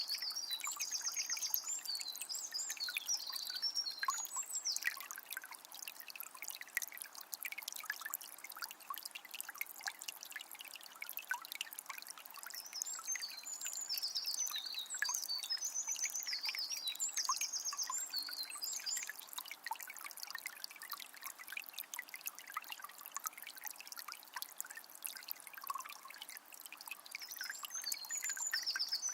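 Small spring trickling and splashing, with many quick little drips and gurgles. A songbird sings bursts of rapid, high notes in the first few seconds, again in the middle, and near the end.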